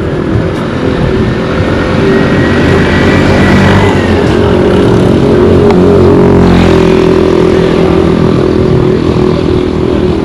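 Road traffic: a motor vehicle engine running loud and close, with a thin high whine that drops in pitch about four seconds in as it passes.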